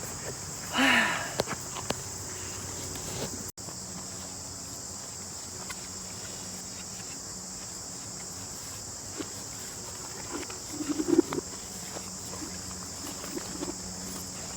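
Steady high-pitched insect chorus of crickets, with a short louder sound about a second in and a few brief knocks and rustles near the end.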